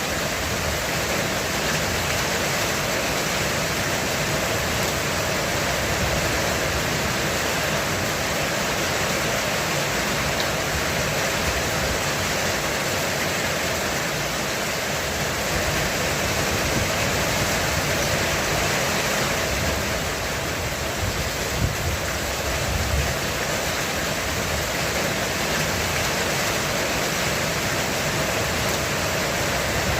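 Heavy rain falling steadily on a roof: a dense, unbroken hiss of drops with no pauses.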